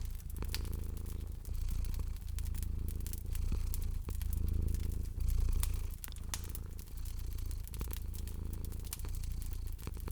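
Domestic cat purring steadily, the low rumble swelling and easing with each breath, while a wood fire crackles with scattered sharp pops.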